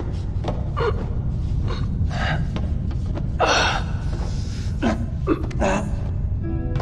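Short gasps and grunts of effort from people straining, several in a row with the strongest about halfway through, over a steady low rumble. Held musical tones come in near the end.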